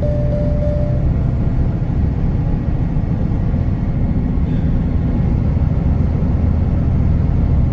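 Steady engine drone and road noise heard inside the cab of a T360 concrete agitator truck travelling on the motorway. A short steady beep sounds in the first second.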